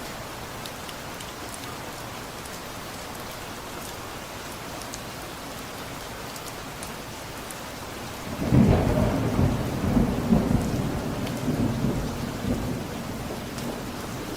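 Steady rain falling, with faint drop ticks. About eight seconds in, a roll of thunder breaks in suddenly, rumbles for a couple of seconds and fades away over the next few.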